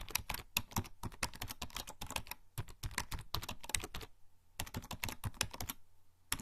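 Typing on a membrane computer keyboard: fast runs of soft key clicks, with short pauses between bursts, the longest about two and a half seconds in and about four seconds in.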